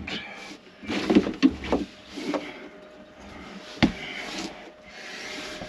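Knocks, clunks and handling noise from working heavy batteries loose in an RV battery compartment, with one sharp knock just under four seconds in.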